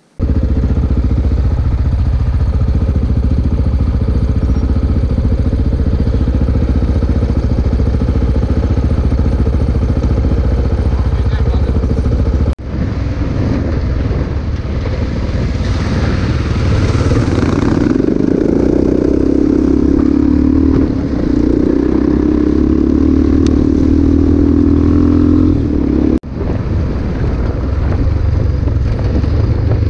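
Dirt bike engine running steadily while riding a gravel trail, heard close up from an on-board camera. The sound breaks off abruptly twice where the footage is cut, with a brief rush of noise in the middle stretch.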